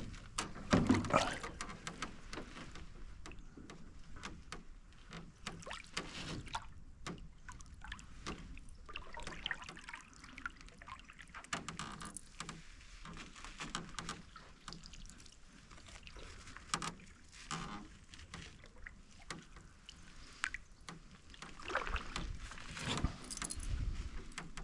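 Canoe being paddled quietly: water dripping and trickling off the paddle, with scattered small knocks of paddle and hull. A louder run of low knocks comes near the end.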